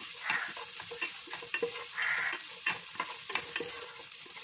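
Beans sizzling in a pan of hot butter with ginger and garlic while a spatula stirs them, scraping and tapping against the pan over and over.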